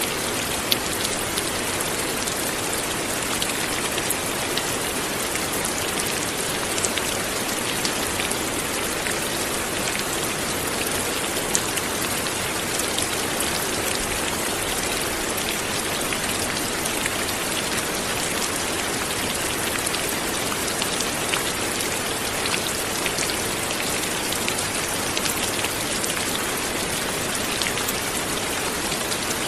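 Light, steady rain falling, with many small individual drop ticks on a surface heard through an even hiss.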